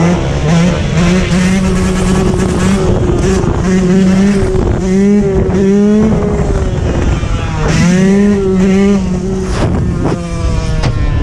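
Dirt bike engine running and revving, its pitch rising and falling again and again with the throttle.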